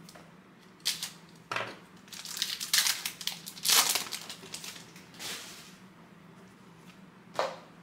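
Foil wrapper of a trading card pack being torn open and crinkled in a run of crackling bursts, with one more short crinkle near the end.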